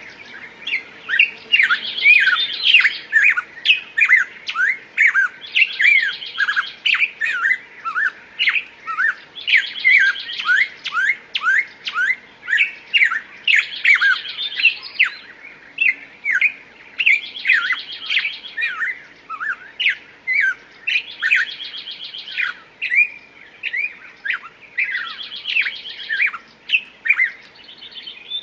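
Songbirds singing: a rapid series of loud downward-sweeping chirps, with a buzzy trill that comes back about every four seconds.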